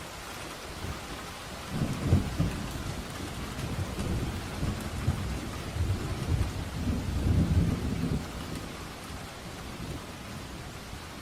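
Steady rain with a long, low rumble of thunder that starts about two seconds in, swells twice and fades out after about eight seconds.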